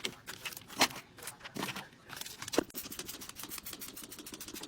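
Handling and cleaning noises: light rubbing and scraping with three sharp knocks, then a run of quick, short scrubbing strokes near the end.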